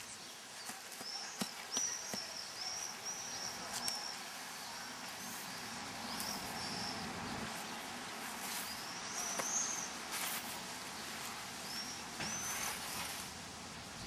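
A small bird singing: runs of short, high, arched chirps in several bursts, with faint rustles and a few light clicks underneath.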